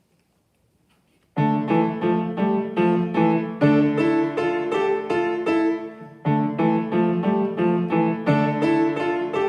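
Solo piano played by a student: after a second or so of near silence, an even run of notes and chords begins, pausing briefly about six seconds in at a phrase end before carrying on.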